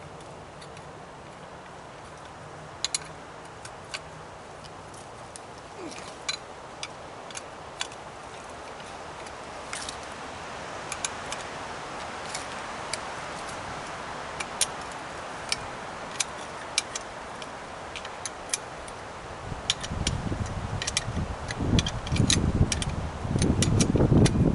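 Small metal scrap parts from a torn-down air compressor clicking and clinking now and then as they are handled, over a steady low hiss. In the last few seconds, louder rough rustling and bumping sets in.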